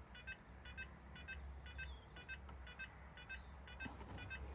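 Beko/Grundig heat pump tumble dryer's buzzer giving short, faint double pips about twice a second during the drum moisture-sensor test, over a steady low hum. A light rustle or knock comes near the end.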